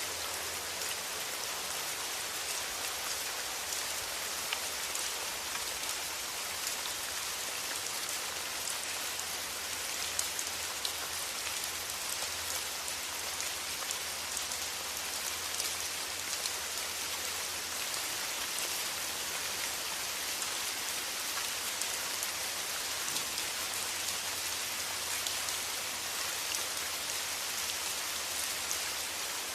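Steady rain: a dense, even patter of drops with scattered louder drips.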